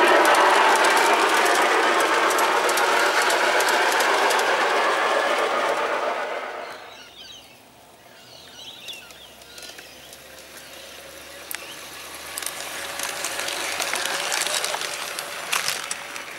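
Garden-scale model train running past on the track, loud at first and fading away about seven seconds in, then coming round again and growing louder near the end, with light clicks from the wheels on the rails.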